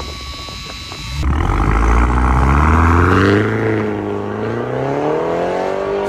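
BMW G22 engine revving through a valved Varex performance exhaust with chrome 70 mm pipes. About a second in, the exhaust note turns abruptly loud and deep and climbs in pitch, eases off, then rises again near the end.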